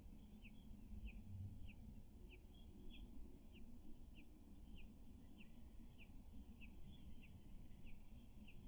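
A bird giving a short, high, downslurred call over and over at an even pace, about one and a half calls a second, faint over a low background rumble.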